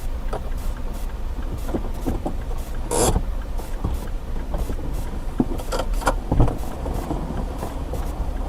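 Steady low rumble of a moving road vehicle, broken by short knocks and rattles. One louder knock comes about three seconds in, and a cluster follows about six seconds in.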